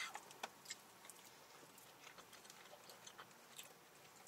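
Faint chewing of fried chicken: scattered soft mouth clicks and smacks over a near-quiet background.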